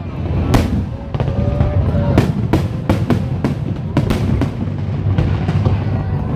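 Fireworks bursting in a quick run of sharp bangs, several a second, over music; the bangs thin out near the end.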